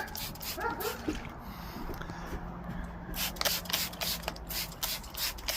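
Hand spray bottle spritzing acid onto a patina-powdered helmet in a series of short bursts, over a low steady hum.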